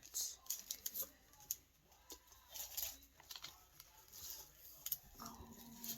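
Paper and craft ephemera being handled: scattered soft rustles, crinkles and light taps, with a faint voice near the end.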